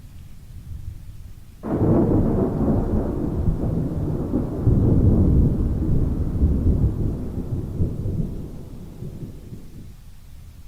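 A sudden sharp crack of thunder about one and a half seconds in, then a long rolling rumble that fades out over about eight seconds, over steady rain.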